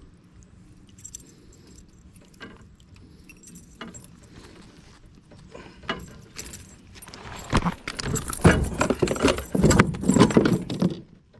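A hooked bass thrashing and splashing at the kayak while it is landed, with lure and gear clattering. It is light and sparse at first, then turns to a loud, busy stretch of splashing and rattling in the last few seconds, which stops abruptly just before the end.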